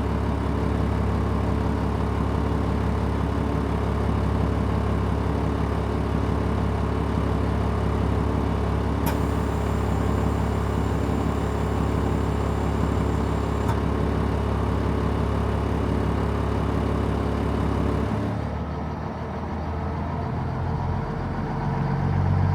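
Stewart & Stevenson M1078 truck's diesel engine idling steadily shortly after a cold start. About 18 seconds in the engine note shifts and drops a little as the idle adjusts itself, with the air and tire inflation systems still building pressure.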